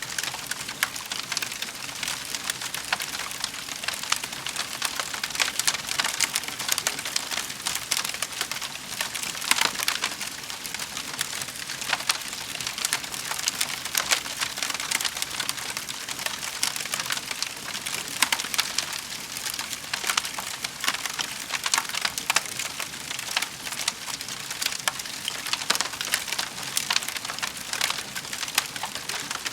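Wood fire crackling in a fireplace: a steady hiss thick with small, irregular pops and snaps.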